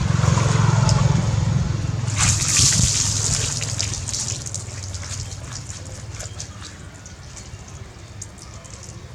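Bathwater splashing and dripping, with a louder rush of splashing about two seconds in, then tapering off into small drips and clicks. A low rumble underlies the first half and fades.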